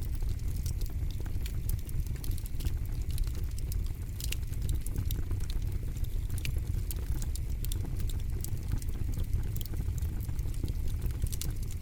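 Campfire burning, the wood crackling with many sharp, irregular snaps and pops over a steady low rumble of the flames.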